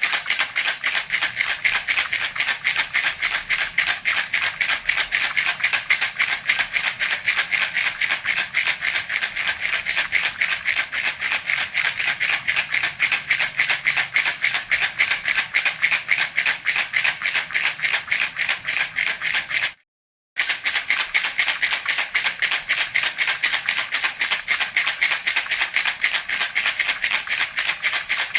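Baby rattle (jhunjhuna) shaken over and over in quick, even strokes, its beads rattling. It cuts out for about half a second about twenty seconds in, then carries on the same way.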